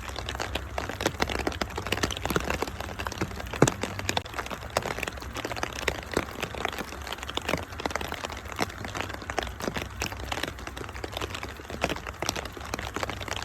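Wood fire crackling: dense, irregular pops and snaps, one louder pop about three and a half seconds in, over a steady low rumble.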